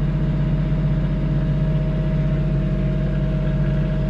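Engine running steadily at idle, an even low drone with a constant tone.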